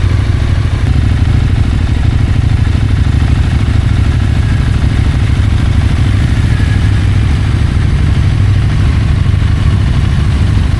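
Motorcycle running steadily, with a heavy low rumble that holds evenly throughout.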